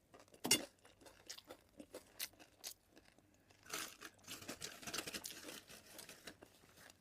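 Close-up chewing and mouth sounds of a person eating: a run of short wet clicks and crunches, with a longer rustling, crunchy stretch about four seconds in.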